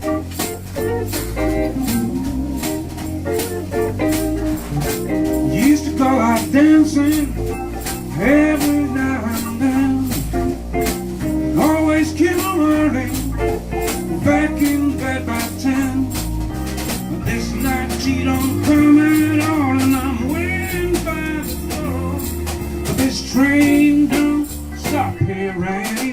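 Live blues-rock band playing an instrumental passage: electric guitar lines with bending notes over bass, a steady drum beat and organ.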